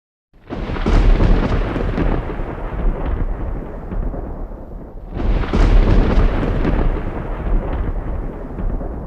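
Loud, low rumbling noise that starts suddenly and comes in two swells, the second about five seconds in.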